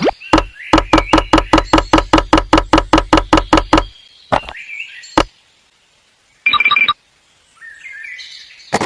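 A rapid, even series of knocks, about six a second for three and a half seconds, then a few single knocks and a short pitched beep.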